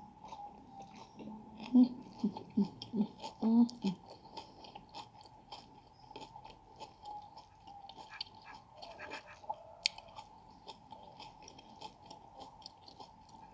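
Close-miked chewing of food, with wet mouth smacks and small crunches throughout. A few louder short sounds come between about two and four seconds in.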